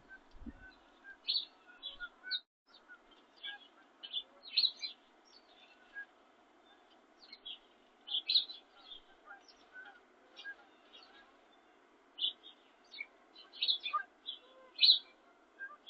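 Small birds chirping, a rapid irregular scatter of short, high chirps and tweets, with several birds calling over one another.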